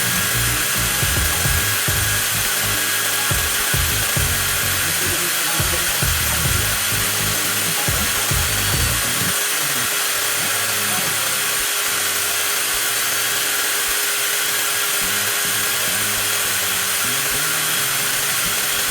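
Brushless cordless angle grinder running steadily with no load, a high motor whine. A low irregular rumble underneath dies away about nine seconds in.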